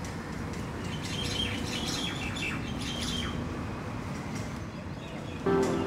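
Birds chirping and calling over a steady background hum, the chirps busiest in the middle. Music comes in near the end.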